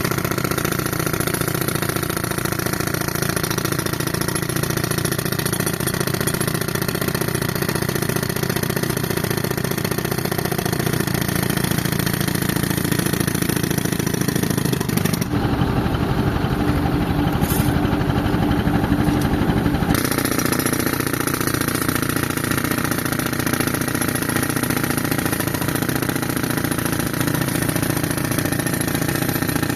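Tractor engine driving an air compressor, running steadily under load with a rapid, even pulsing. For about five seconds in the middle the sound changes, losing its high end and carrying a steady hum, then returns to the earlier running sound.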